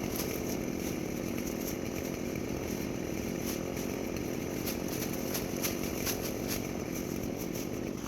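Stihl chainsaw running steadily while cutting brush, with irregular sharp ticks over the engine noise.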